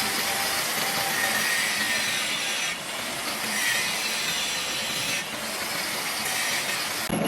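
Steady rasping, scraping noise of metal being cut in a workshop, with abrupt shifts about three and five seconds in and a sudden stop near the end.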